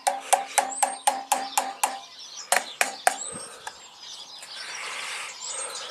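Metal billy can being struck rapidly on its side, about four ringing taps a second in two runs with a short break, to settle the grounds of cowboy coffee. Birds chirp a few times.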